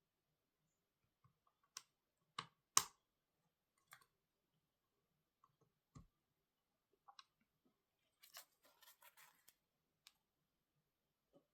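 Scattered small clicks and taps from handling small hard objects, the sharpest about three seconds in and a duller knock about six seconds in, then a short scratchy rustle a little past eight seconds.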